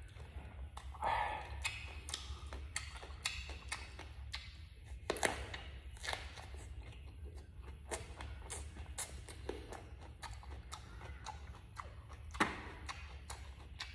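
Close-miked eating sounds: chewing with irregular wet clicks and crunches, a few louder bites among them, over a steady low hum.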